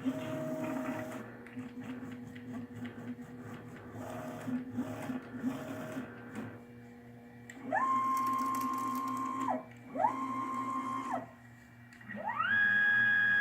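Stepper motors of a custom rotary CNC router jogging an axis. The drive whine rises in pitch as the axis speeds up, holds steady and falls away as it stops, three times. The last move is higher-pitched and longer, with quieter motor hum and short tones in the first few seconds.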